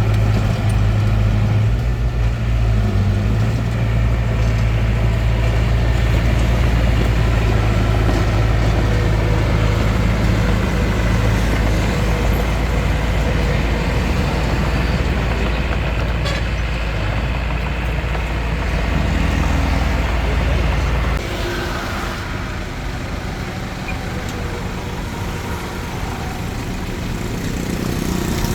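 Hitachi DX45M bulldozer's diesel engine running steadily while working. Its deep drone drops off sharply about 21 seconds in.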